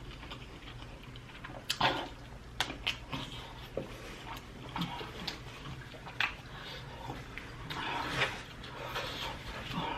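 A person eating sauced prawns close to the microphone: chewing and wet mouth sounds, with scattered sharp clicks and smacks.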